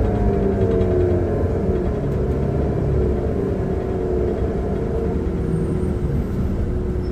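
Transperth bus TP1422's engine and drivetrain running on the road: a steady low rumble with a droning whine that drifts slightly in pitch, the engine sound that is called bad.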